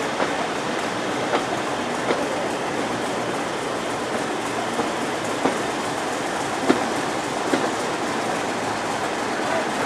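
Passenger train running along the track, heard through an open coach window: a steady rush of wheel and air noise with a few irregular sharp clicks of the wheels over the rails.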